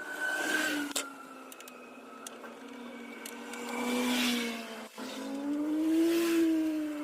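A motor running with a steady whine that drifts slowly up and down in pitch, swelling louder about every two seconds.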